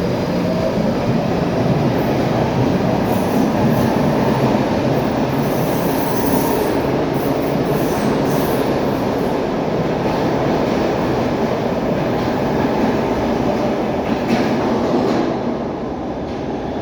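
PATCO electric subway train pulling out of an underground station: steady rumble of motors and wheels on the rails, with some faint high wheel squeal in the middle. The noise falls off about three-quarters of the way through as the train leaves.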